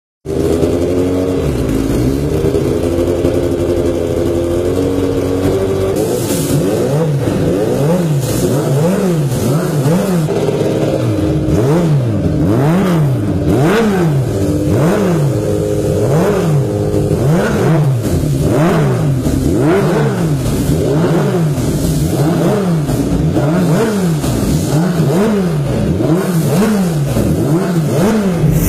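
Racing motorcycle engines revving hard, their pitch rising and falling over and over about once a second.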